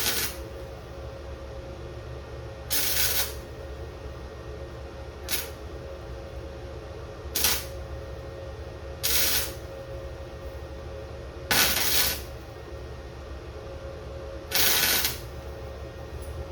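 Tack welding with a small electric welder on an exhaust pipe: seven short crackling bursts, each under a second, a few seconds apart, over a steady hum.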